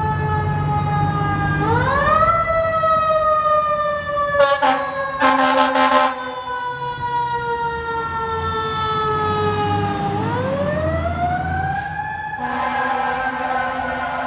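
Fire truck siren wailing: the tone rises quickly twice and falls slowly after each rise. Short blasts of a horn cut in a few seconds in and again near the end, over the low rumble of the truck's engine.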